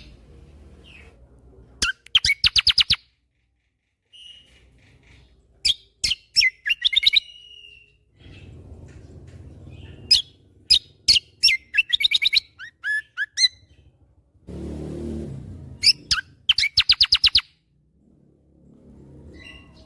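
Kecial kombo songbird singing in loud bursts of rapid repeated notes, the fast chattering 'tembakan' phrases that bird-keepers prize, each burst lasting about a second with short pauses between. A brief low noise comes just before the fourth burst.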